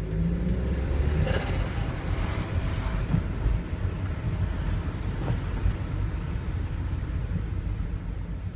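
1999 VW Passat's 1.8 20-valve turbo four-cylinder running, with a short burst of turbo flutter, the chattering of air through the open Ramair filter, about a second in.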